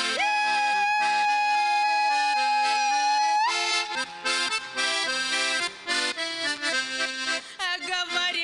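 Russian garmon (button accordion) playing an instrumental break between chastushka verses. It opens with a long held high note over changing bass chords for about three seconds, then moves into a lively rhythmic dance tune.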